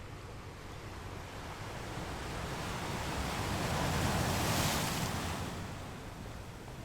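Ocean surf: a wave swells to a peak about two-thirds of the way in, then falls away, over a steady low rumble of the sea.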